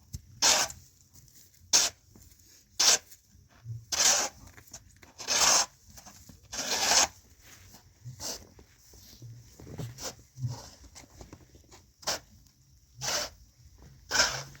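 About a dozen separate rasping scrapes, each under a second long, coming at uneven intervals about a second apart.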